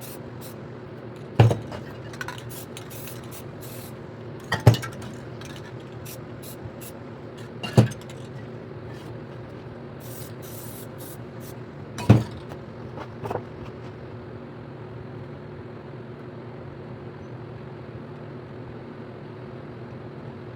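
Short hisses of a spray paint can, broken by five sharp knocks, over a steady low hum. The spraying and knocks stop about two thirds of the way through, leaving only the hum.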